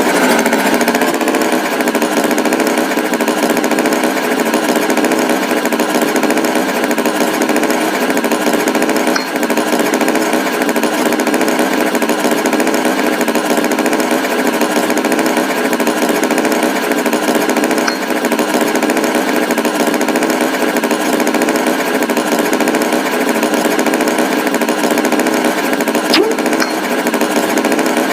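Tractor engine running steadily with a fast, even chugging rhythm.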